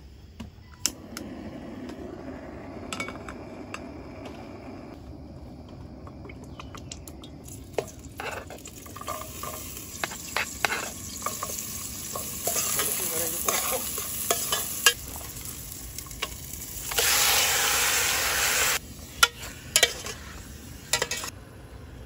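Ingredients for tinola sizzling in a hot cooking pot while being stirred, with a utensil knocking and clinking against the pot. The sizzling grows louder partway through, and a loud rush of about two seconds comes near the end.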